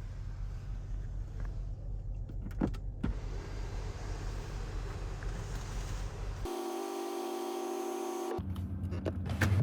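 Range Rover P530's V8 engine bay sounds: a steady low hum with a couple of clicks. About six seconds in, a steady electric whine lasts about two seconds. Then the engine runs with a louder, deeper hum near the end.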